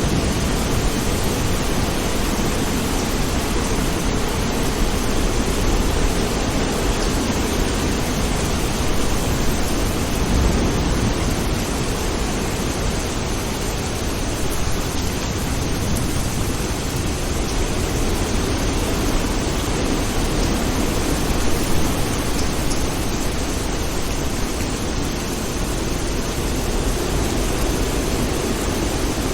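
Steady rain falling, a dense even hiss that holds at a constant level, with no separate thunderclap standing out.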